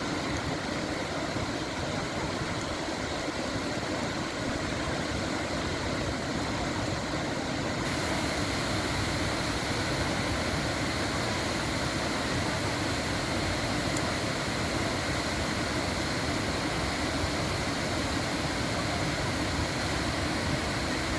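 Waterfall rushing steadily, an even wash of water noise; it grows brighter and fuller about a third of the way in.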